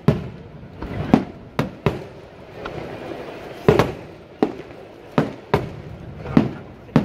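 Aerial firework shells bursting: about nine sharp bangs at irregular intervals, each trailing off in a short rumble.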